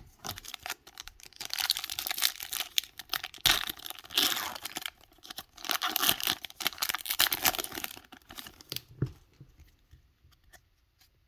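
Foil Pokémon booster pack wrapper being torn open and crinkled, a dense crackling rustle lasting about eight seconds, then a few faint taps near the end.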